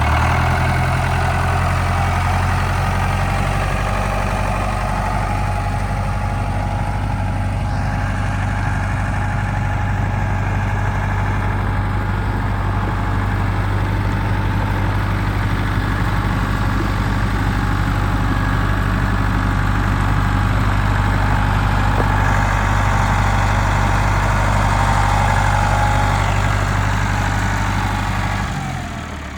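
1976 David Brown two-wheel-drive tractor's diesel engine idling steadily at an even pitch. The low engine note stops just before the end.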